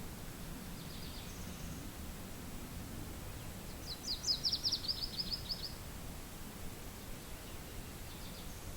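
Steady low wind noise. About four seconds in, a songbird gives a quick trill of a dozen or so high notes lasting under two seconds, with fainter high chirps near the start and near the end.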